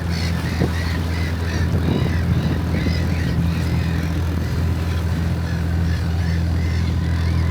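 A small boat's motor running steadily under wind and choppy water. Waterfowl call over it in many short, high, rising-and-falling honks, thinning out after about four seconds.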